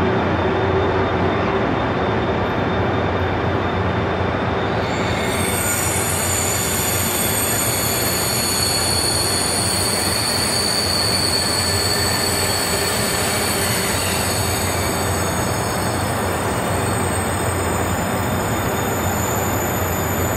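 KTX-I high-speed train pulling out of the station, its cars rolling past with a steady, dense running noise. About five seconds in, several high, steady squealing tones join it.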